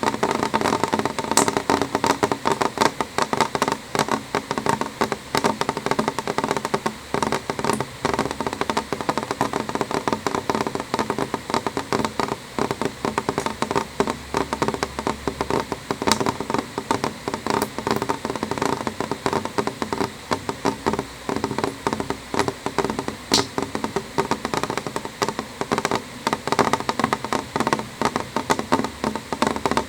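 Gentle rain falling on a window pane: a dense, irregular stream of drops tapping the glass over a steady wash of rain.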